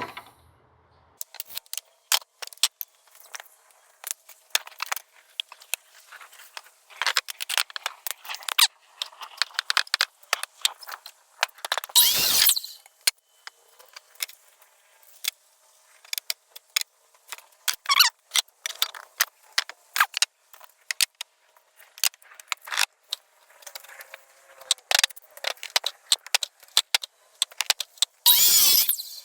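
Workshop handling noise: a scatter of clicks, knocks and scrapes as tools and a board are moved and set up. Two brief, louder rushes come about twelve seconds in and again near the end.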